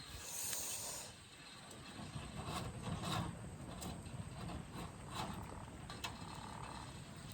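Wood campfire crackling, with irregular snaps and pops over a low rumble, and a short hiss in the first second.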